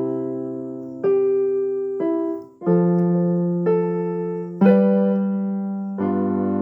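Electric piano or keyboard playing slow sustained chords, a new chord struck about once a second and left to fade.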